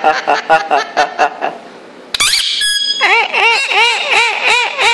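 Indian ringneck parrot laughing in quick "ha ha ha" pulses for the first second and a half. About two seconds in it gives a brief shrill screech, then a fast run of rising-and-falling laugh notes, about five a second.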